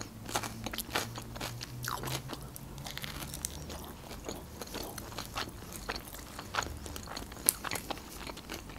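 Close-miked eating sounds: chewing and crunching a rolled-up lahmacun wrapped with fresh parsley and green onion, with a bite into the roll and wet mouth clicks throughout.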